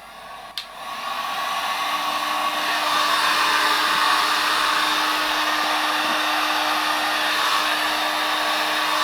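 Hair dryer blowing on wet boots to dry them. There is a click about half a second in, then the airflow builds over the first second or two to a steady rush with a low steady hum.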